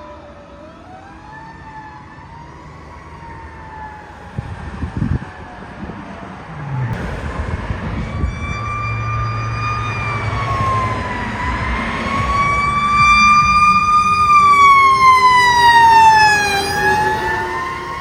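Fire truck siren wailing, its pitch slowly rising and falling, growing louder as the truck approaches with its engine rumbling underneath. Near the end it drops in pitch and fades as the truck passes.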